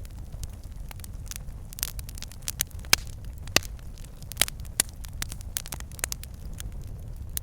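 Wood fire burning in a fireplace, logs crackling and popping irregularly over a steady low rumble of the flames.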